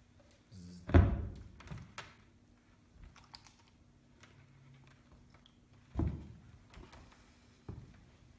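Small knocks and clicks of objects being handled, with two louder thumps, about a second in and about six seconds in.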